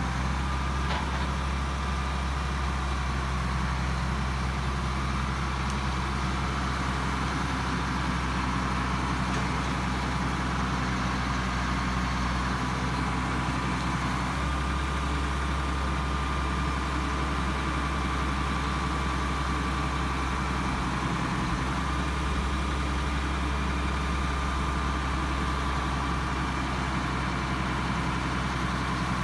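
A large engine idling steadily, a low even hum with a faint steady higher tone above it.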